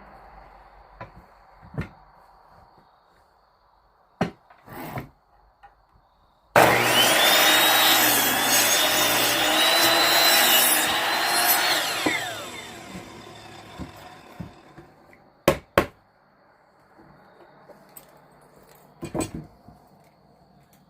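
An electric power saw starts suddenly about six seconds in, runs at speed for about five seconds cutting wood, then winds down with a falling pitch. Scattered knocks and clicks of wood being handled come before and after.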